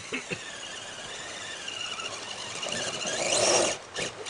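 High-pitched whine of a 1/10-scale electric RC truck's motor and gears, the pitch climbing steeply as it throttles up about three seconds in.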